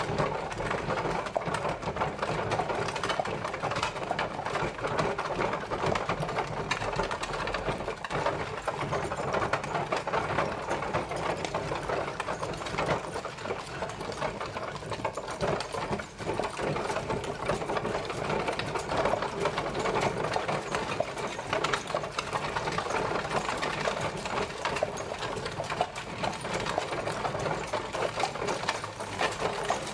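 Horse-drawn carriage traveling: a steady, dense rattle of the rolling carriage, with no let-up.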